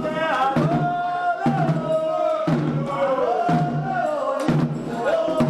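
Candomblé ritual music: a sung chant in Yoruba for Xangô over drums, with low drum strokes about once a second under a wavering sung melody.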